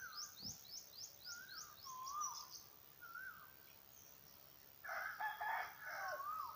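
A rooster crows once, near the end, the loudest sound here. Before it, small birds sing: one repeats a short whistled note several times, and another gives a quick run of high, falling notes, about four a second.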